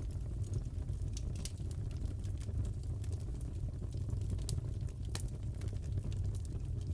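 Fireplace crackling: a steady low rumble with sharp pops and snaps scattered irregularly throughout.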